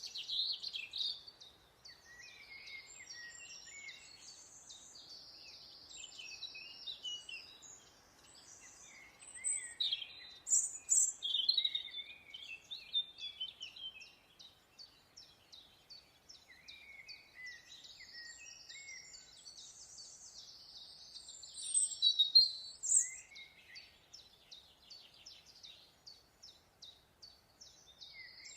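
Several songbirds singing and calling at once: overlapping high chirps, short whistled phrases and rapid trills. There are louder bursts about a third of the way in and again about three quarters of the way through.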